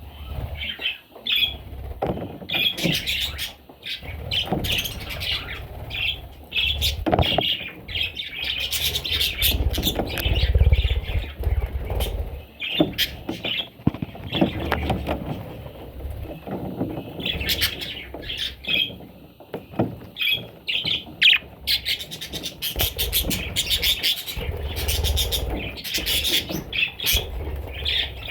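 Budgerigars chirping and squawking in short, repeated calls, with scattered clicks and a low rumble at times.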